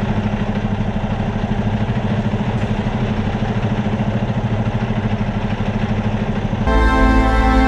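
Semi truck's diesel engine running steadily while driving, a low even drone. About seven seconds in, music starts over it.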